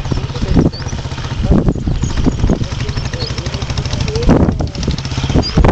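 Motorcycle engine running steadily, with irregular loud thumps every second or so.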